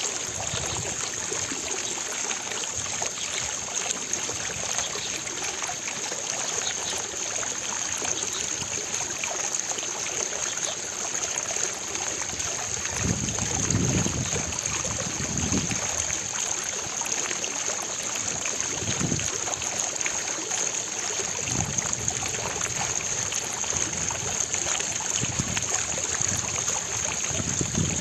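Water from a fountain falling and splashing steadily. A few low rumbles come in during the second half.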